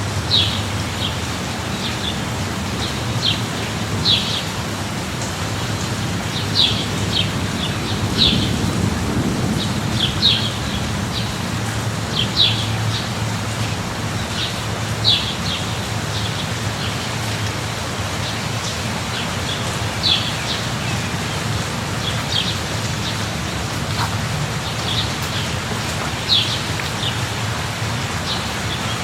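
Steady rain falling, with a bird calling over it in short, high chirps every second or two. A brief low rumble swells about eight seconds in.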